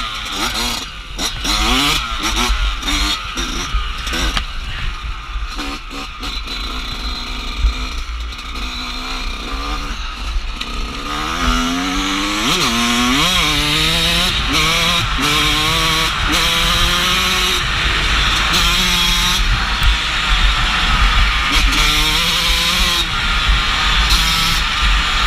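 Dirt bike engine revving up and dropping back repeatedly as it is ridden and shifted through the gears, over a constant low rumble of wind on the microphone. The first half is broken by many short knocks and bumps, and the engine sound grows steadier and louder about halfway through.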